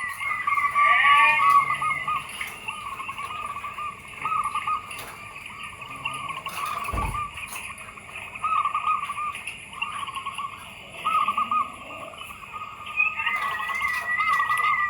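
Zebra doves (perkutut) cooing: repeated short phrases of fluttering coo notes. A higher trill joins at the start and again near the end, and there is a single low thump about halfway.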